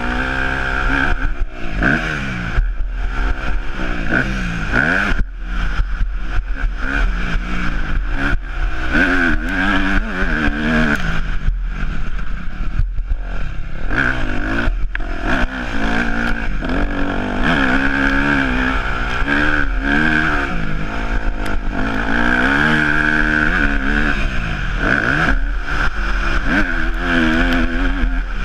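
Yamaha YZ250F's 250 cc four-stroke single-cylinder engine being ridden hard, revving up and backing off again and again. Its pitch climbs and drops every second or two with short throttle chops.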